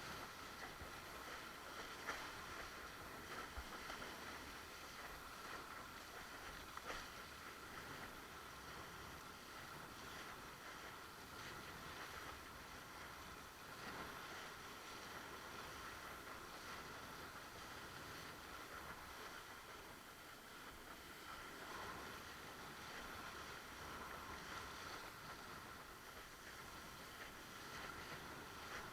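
Faint, steady rush of water and wind from a windsurf board sailing across the water, with a few light knocks.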